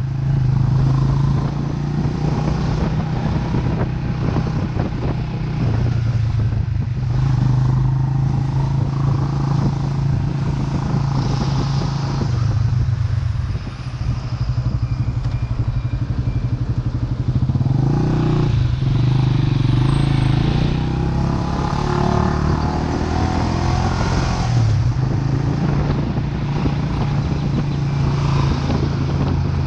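Vento Lucky 7 motorcycle engine running steadily under way, its note shifting a little as the throttle changes. It eases off briefly around the middle and picks up again.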